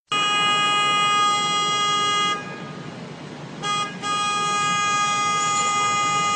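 Tram horn sounded repeatedly at a car parked across the track: a long blast of about two seconds, a short tap, then another long blast of nearly three seconds.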